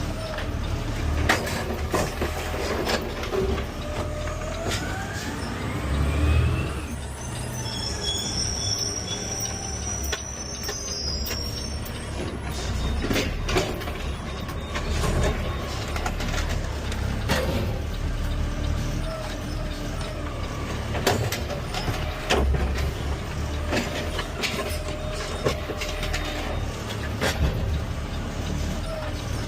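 Peterbilt 520 automated side-loader garbage truck running, with a steady low engine rumble and frequent knocks and clanks. A rising whine comes in about six seconds in.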